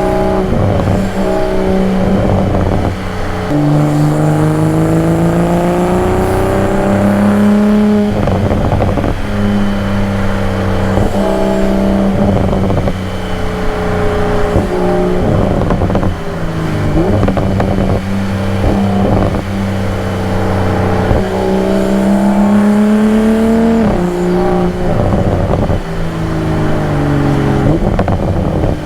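2022 Toyota Supra's engine and exhaust under hard driving: the engine note climbs with revs and drops sharply at each of several upshifts, then climbs again. In between there are stretches of steady cruising.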